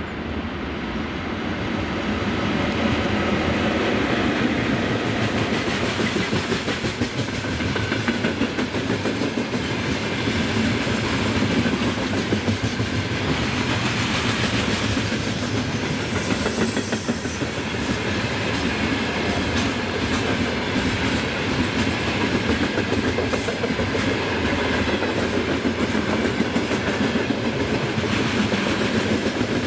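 Freight train rolling past behind a VL80S electric locomotive, its wagon wheels clattering over the rail joints in a quick, steady rhythm. It grows louder over the first few seconds and then holds.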